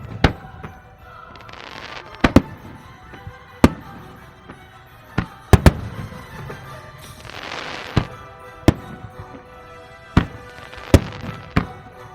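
Fireworks bursting: about a dozen sharp bangs at uneven intervals, with a hissing crackle that swells and fades around the middle, over music with sustained tones.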